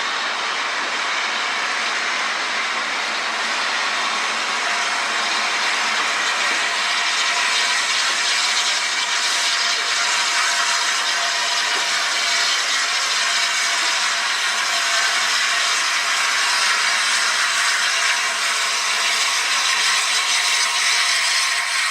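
A train running: a steady rushing noise with a few faint held tones, slightly louder in the middle.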